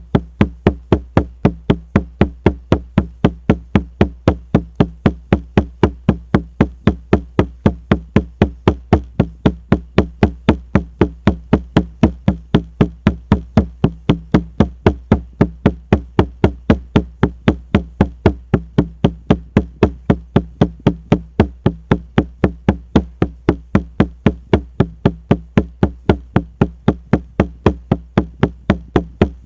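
Shamanic frame drum (buben) beaten in a steady, even rhythm of about three strokes a second, each stroke a deep booming thud.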